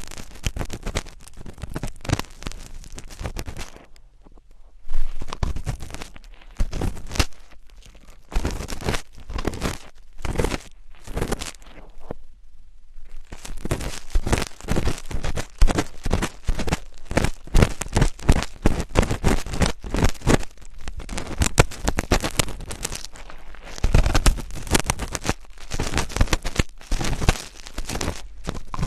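Close-miked ASMR scratching and crackling: rapid strokes in quick runs, with short pauses about four and twelve seconds in.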